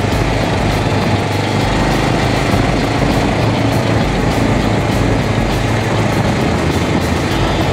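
Kawasaki KLR650's single-cylinder engine running steadily under way, under a loud, even rush of wind noise.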